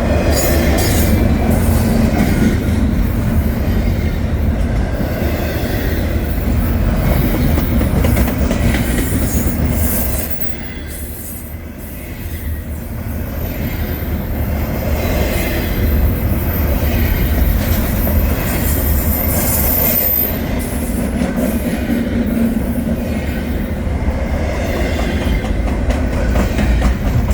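Freight train rolling by on the rails: a loud continuous rumble of cars and wheels that eases briefly about a third of the way in, with a thin high squeal partway through.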